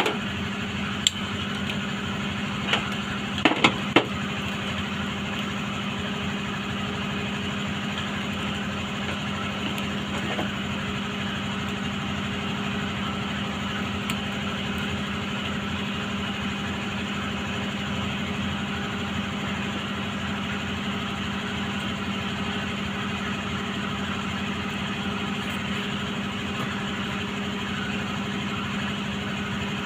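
A steady machine hum holds one low tone throughout, with a few sharp clicks in the first four seconds.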